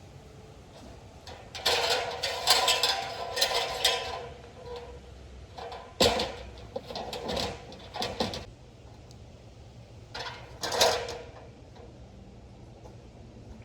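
Bursts of clattering and knocking from objects being handled, three spells in all, the sharpest a single knock about six seconds in.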